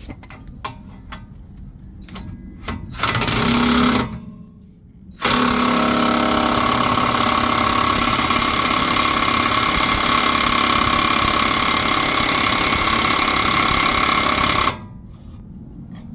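Power impact wrench hammering in two runs, a short one about three seconds in and a long one of about ten seconds that stops abruptly, driving the 32 mm nut of a bearing press tool to pull a front wheel bearing into the steering knuckle.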